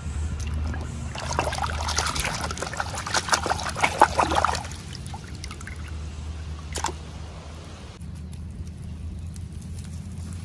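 A dense run of small crackles and clicks lasting about three and a half seconds, then a single sharp click near the end, over a steady low hum.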